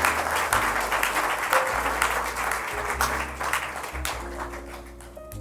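Audience applause that dies away about four seconds in, over soft background music with held notes and a bass line.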